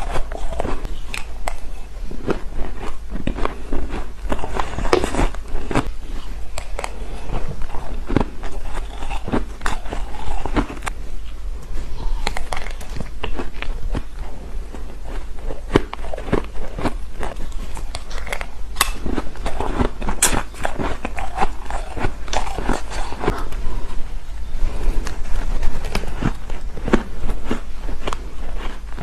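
Close-miked crunching of spoonfuls of shaved ice being bitten and chewed: a dense, irregular run of sharp crunches and crackles.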